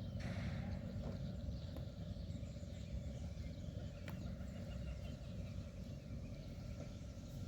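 Wind buffeting the microphone outdoors, a steady, uneven low rumble.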